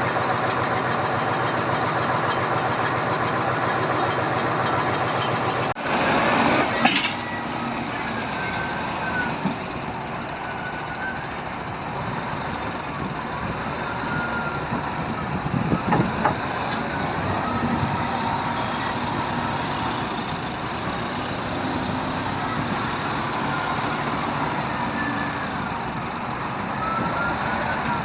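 Diesel engine of a logging truck running steadily while logs are unloaded. About six seconds in the sound changes abruptly, with a short rush of noise. After that the engine runs on under short high squeaks and a few knocks.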